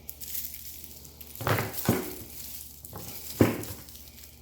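Handling noise from a pressure washer hose and its packaging being worked free: a few knocks and rustles, with a pair of knocks about a second and a half in and the sharpest knock about three and a half seconds in.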